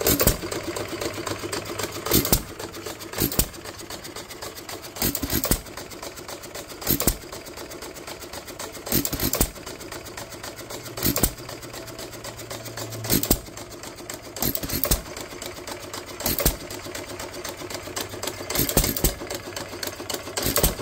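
A 2 HP Waterloo Boy single-cylinder hit-and-miss engine running. It fires a loud bang about every one and a half to two seconds, and a light, rapid mechanical clatter continues as it coasts between firings.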